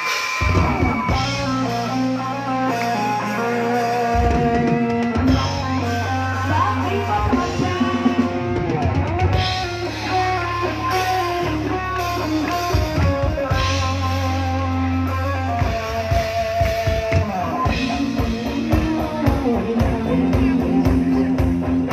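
Live band music with guitar, bass and drum kit playing a steady beat.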